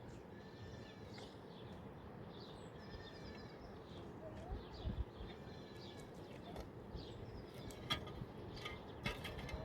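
Birds chirping in short repeated calls over a steady background hiss, with a few sharp clicks near the end.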